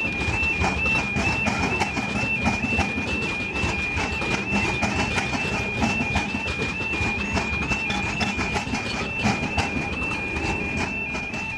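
A train passing with rapid clattering of wheels over the rails. Throughout, a high two-tone warning alarm switches back and forth between two pitches. The clatter fades near the end while the alarm keeps sounding.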